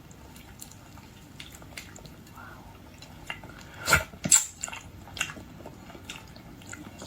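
Close-miked eating sounds: scattered small mouth and food clicks, with two sharp, loud bites about four seconds in.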